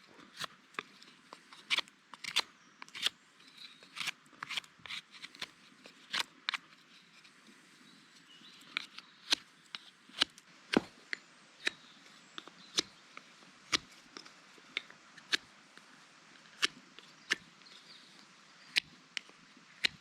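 Wood fire crackling: irregular sharp snaps and pops, about one or two a second, over a faint steady background.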